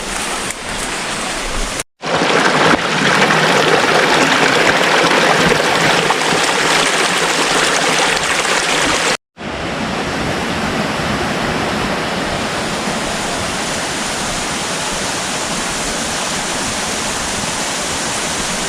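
Steady rush of running water, cut off twice by brief edits to silence, about two seconds and about nine seconds in; the stretch between the cuts is a little louder.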